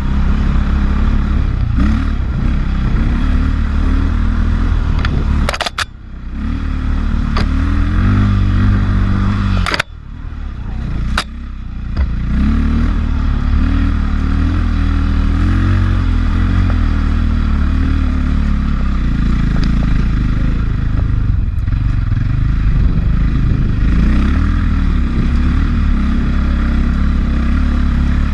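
A 450cc four-stroke single-cylinder dirt bike engine running on a trail climb, its revs rising and falling with the throttle. Twice the engine sound drops away briefly after a sharp knock, about six and ten seconds in, then picks back up.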